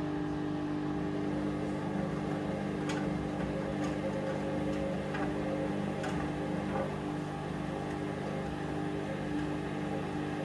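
Hoover Vision Dynamic washing machine running a wash: a steady motor hum made of several held tones, with a few light clicks or taps between about three and seven seconds in.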